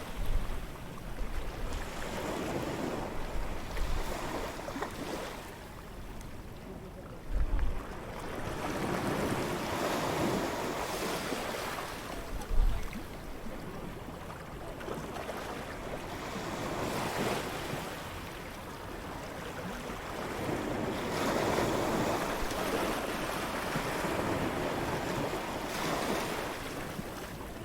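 Ocean waves breaking and washing up a beach, the surf swelling and falling back every several seconds. Wind runs through it, with a couple of brief low buffets of wind on the microphone.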